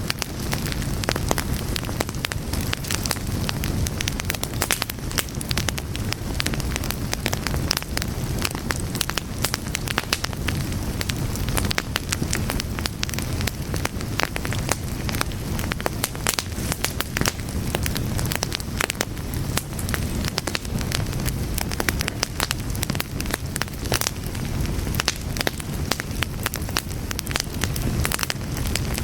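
A fire crackling steadily, with dense irregular pops and snaps over a low rumble of flames.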